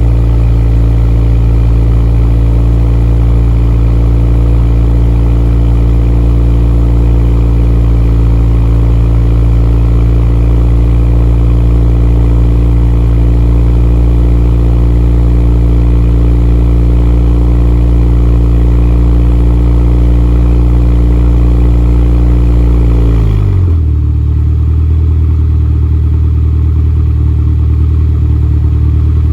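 Honda Accord four-cylinder engine heard through a Ktuned 3-inch turn-down exhaust, held at a steady raised speed. About 23 seconds in, the revs drop and it settles into a lower, steady idle.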